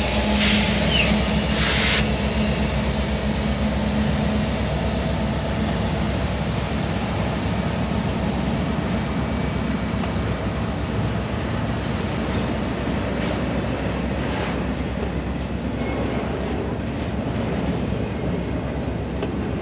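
Freight train passing. A diesel locomotive's steady engine tone fades over the first few seconds, with a few brief high squeals near the start, then the rumble and clatter of cars rolling by.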